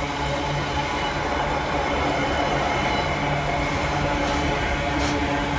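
Container freight wagons rolling past at speed, a steady rumble of wheels on rail, with one sharp click near the end.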